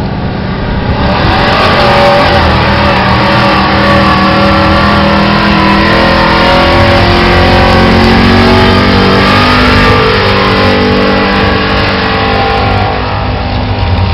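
Modified four-wheel-drive pulling truck's engine running hard at high revs under load during a pull. It builds up about a second in, holds loud and steady, and eases off slightly near the end.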